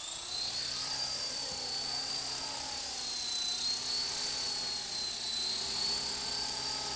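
Walkera LM3 remote-control electric helicopter in flight: a steady high-pitched whine of its small electric motors and rotors, the pitch wavering slightly as the throttle is worked.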